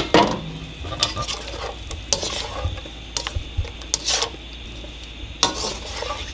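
Chicken pieces sizzling in oil in a wok, stirred and scraped around the pan with a plastic slotted spatula in irregular strokes about once a second.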